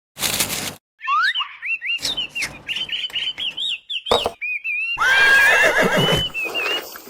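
Bird calls: quick whistled chirps sliding up and down in pitch, repeated many times, mixed with several short noisy bursts.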